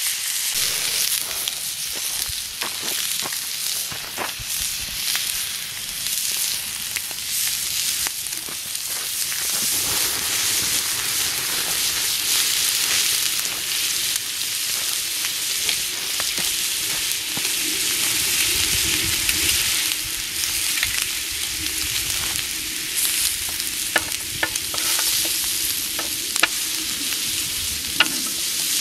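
Steak sizzling as it fries, a steady hiss with scattered sharp crackles and pops of spattering fat.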